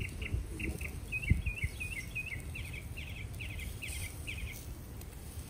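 A songbird sings a string of short, rapid chirps, changing to hooked, slurred notes about a second in and then to quicker repeated phrases. A few low thumps of handling sound it early on, the loudest about a second in.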